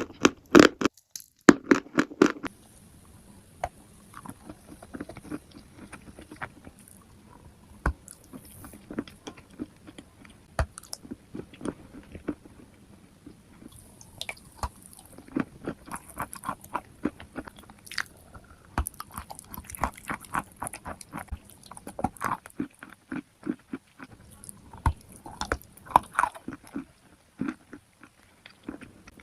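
Close-miked biting and chewing of crunchy chalk and clay: a few loud, crisp crunching bites in the first two seconds, then quieter, irregular chewing crackles.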